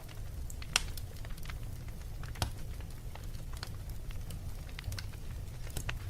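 Wood fire in a fireplace crackling, with irregular sharp pops over a low steady rumble; two pops stand out, one just under a second in and another about two and a half seconds in.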